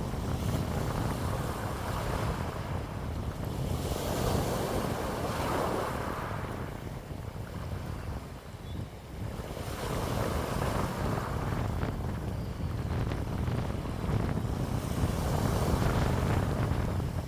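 Wind blowing in gusts and buffeting the microphone, a rushing noise with a deep rumble that swells and eases, dropping to a lull about eight seconds in before building again.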